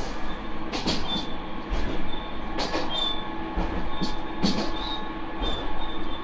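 Diesel railcar running along the line, heard from inside the car: a steady engine and running hum, with irregular knocks of the wheels over rail joints and brief high squeaks now and then.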